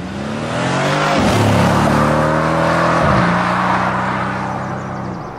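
Car engine and exhaust under hard acceleration: the pitch climbs, drops sharply at an upshift about a second in, climbs again and drops at a second upshift about three seconds in, then holds a steady note. It grows louder through the middle and eases off toward the end.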